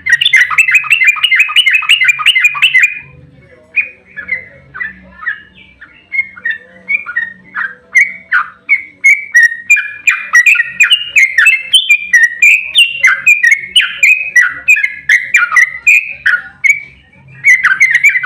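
Yellow-vented bulbul (trucukan) singing its long rolling 'ropel' song, rapid chirping notes in close-packed runs. There is a fast burst at the start, a looser stretch of notes, a long dense run, and another fast burst near the end.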